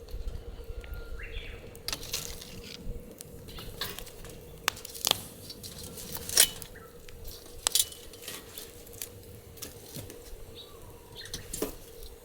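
Wood fire crackling in a steel fire pit, with irregular sharp pops and snaps, the loudest about halfway through.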